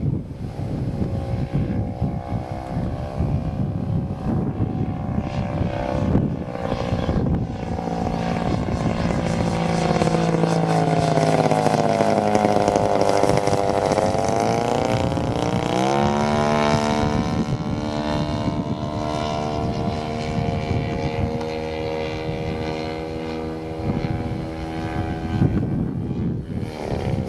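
Propeller engine of a 1/3-scale radio-controlled Cessna 182 model in flight, a steady buzzing note with wind on the microphone. It grows loudest about halfway through, where the pitch sweeps down and then climbs sharply back up as the plane passes.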